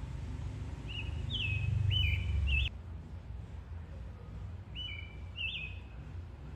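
A songbird sings two short phrases of clear, sliding whistled notes, a couple of seconds apart. Under it runs a low rumble that swells in the first few seconds and then drops off abruptly.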